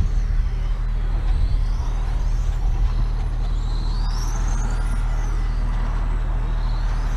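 Racing motorcycle engine running hard under a steady rush of noise, with a whine that rises and falls in pitch as the revs change.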